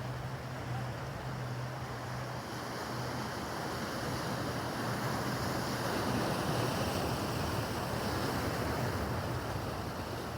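Motorboat engine running with a low drone, over the rush of rough water and wind. The engine note fades after a couple of seconds, while the rushing noise swells and peaks about halfway through.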